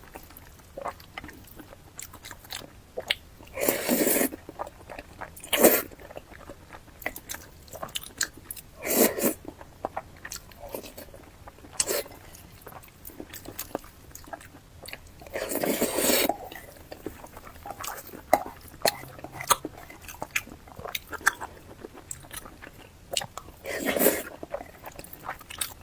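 Close-miked eating sounds: continual small wet chewing clicks, broken by about five louder, noisier mouthfuls lasting under a second each.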